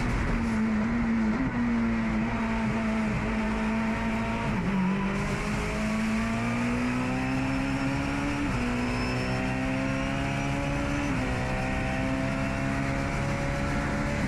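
Turbocharged Honda K22 four-cylinder engine of a race-prepared Honda NSX at racing speed, heard onboard: the revs dip about four and a half seconds in, then climb hard, with upshifts about eight and a half and eleven seconds in.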